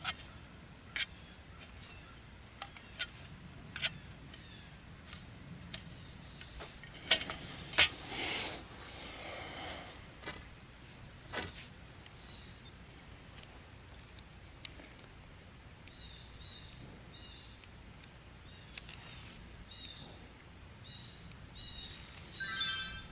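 Carbon-steel striker knife struck against a chert rock to throw sparks, giving sharp scraping clicks at irregular intervals, with a pause in the middle.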